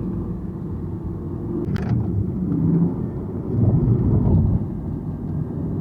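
Sports car engine running during a track drive through a turn, its note shifting and growing louder about three and a half seconds in, with a single short click about two seconds in.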